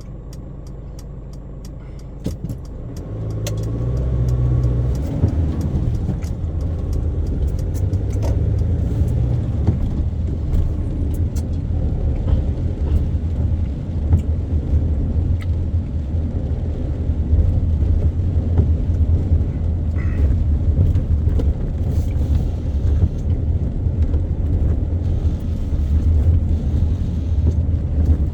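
Car engine and road noise: the car pulls away about three seconds in, the engine note rising, then runs on at a steady low rumble.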